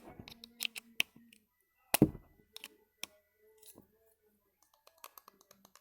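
Things being handled and set down on a hard surface: scattered clicks and taps, with one loud thump about two seconds in.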